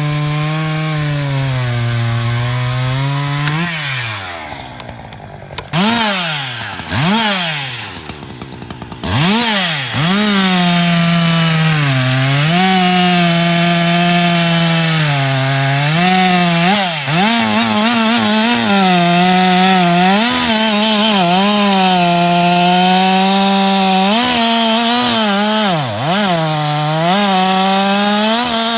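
Two-stroke chainsaw running at high revs and cutting wood, its pitch sagging under load and recovering again and again. From about four to ten seconds in it drops back and is revved up and down a few times before going back to full throttle for a long cut.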